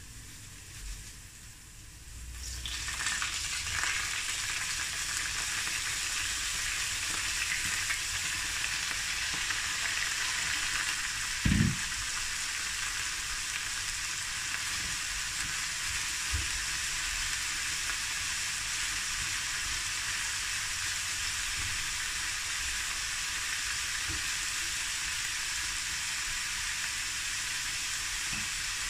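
Shredded savoy cabbage going into hot oil in a frying pan: the sizzle jumps up about two and a half seconds in and then holds as a steady, dense sizzle. A single low thump comes near the middle.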